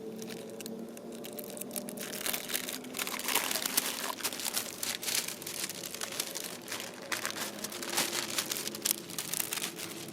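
Irregular crinkling and crunching, a dense run of small crackles that grows heavier about two seconds in.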